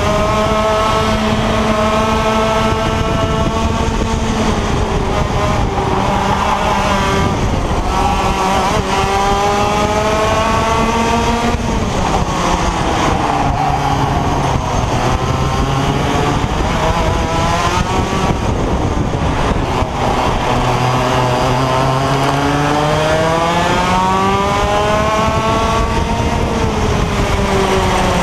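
IAME X30 125cc two-stroke kart engine running at racing speed, its pitch climbing under acceleration and dropping off several times as the throttle comes on and off.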